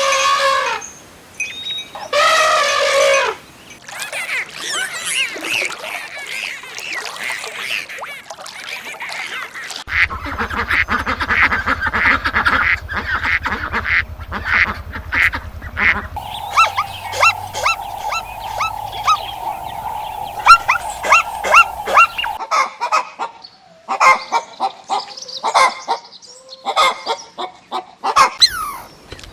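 Farm birds calling in several separate stretches, including rapid runs of short repeated calls.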